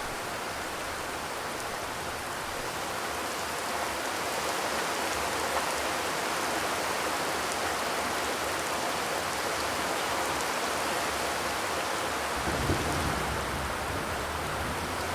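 Steady rain drumming on a zinc (corrugated metal) roof, an even hiss of many drops. A low rumble comes in near the end.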